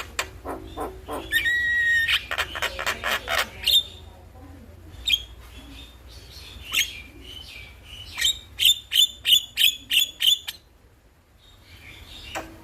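Javan myna (jalak kebo) song: rapid runs of sharp, repeated chattering notes with a whistled note early on, a sparser stretch in the middle, a fast burst of repeated notes, then a brief pause near the end before it picks up again.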